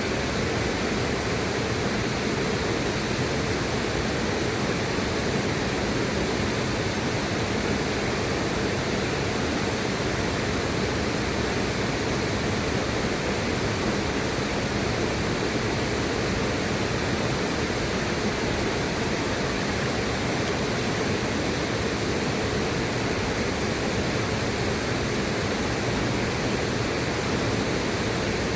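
River water rushing steadily, an even, unbroken wash of noise with no breaks or separate splashes.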